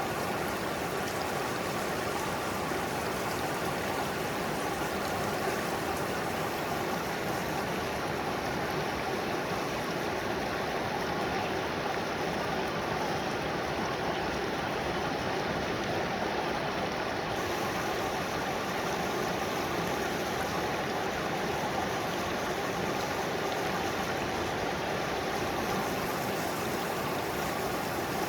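Mountain stream flowing steadily over rocks, heard close up: an even, unbroken rush of water.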